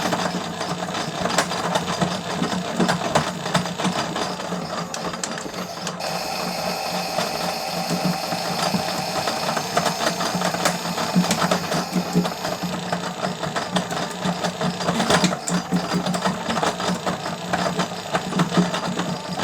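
Small electric motor of a Miele W1 toy washing machine running through its cycle: a steady hum with constant light plastic clicking and rattling as the drum turns. A higher whine joins in about six seconds in and lasts a few seconds.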